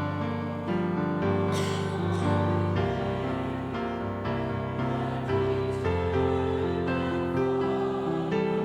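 Piano playing slow, held chords over a low bass line.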